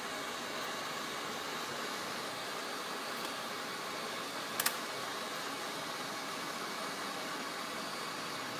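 Steady airy hiss of a hot-air rework station blowing on a phone circuit board to desolder and lift off a backlight IC, with a short double click about halfway through.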